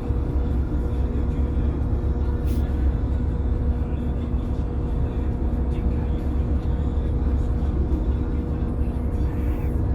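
A yacht's engine running steadily: a deep, unchanging drone with a steady hum.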